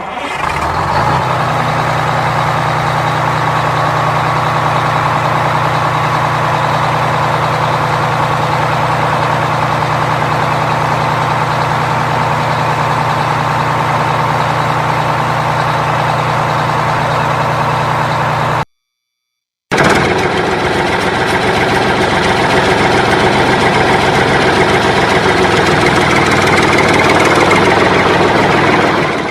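An engine running steadily at idle, with a low even hum. It cuts out completely for about a second about two-thirds of the way through, then carries on.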